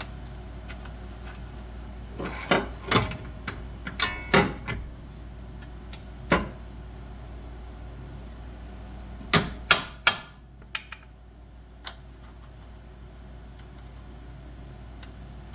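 Sharp knocks and clanks of tools and suspension parts being handled while a control arm is fitted, coming in a few short clusters, over the steady hum of shop fans.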